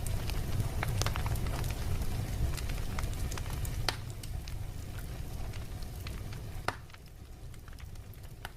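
Wood fire burning in a fireplace, crackling with scattered sharp pops over a low steady rumble; it fades down near the end.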